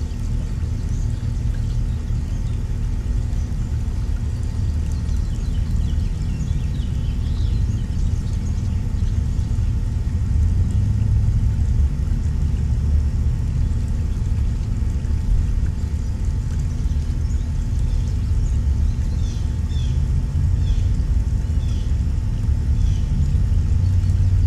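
Steady low rumble throughout, with a faint hum, over which small songbirds give short, faint chirps in two series, one about a quarter of the way in and one near three quarters.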